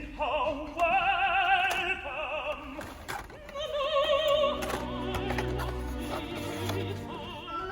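Opera singing: a voice holding long notes with wide vibrato, moving through a slow phrase.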